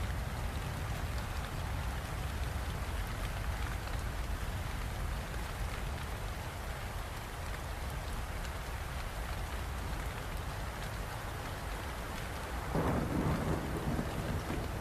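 Steady heavy rain over a constant deep rumble of thunder. Near the end a louder crack-and-roll of thunder stands out for about a second.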